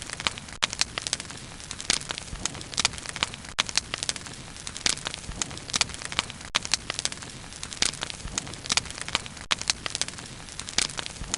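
Wood bonfire burning, with irregular sharp crackles and pops, several a second, over a steady hiss of the flames.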